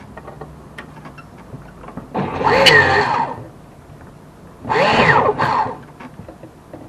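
Two short start attempts on a nitro RC buggy engine, each about a second long, with the pitch sweeping up and down before it stops. Light handling clicks come between them.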